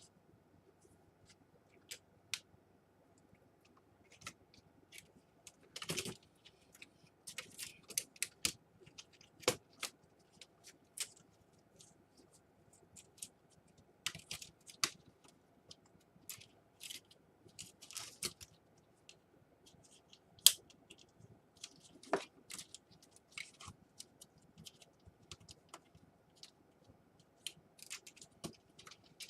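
Faint, irregular small clicks and taps of plastic laptop parts being handled and pressed into place, with a few sharper snaps.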